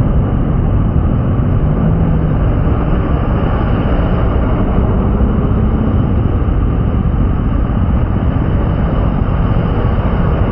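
Steady driving noise of a vehicle on rain-wet streets: a low engine hum under a constant wash of road and rain noise.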